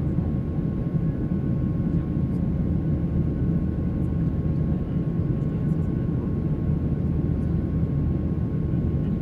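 Boeing 737-800 in flight, heard from inside the cabin: a steady low rumble of its CFM56 jet engines and airflow, with a faint steady whine over it.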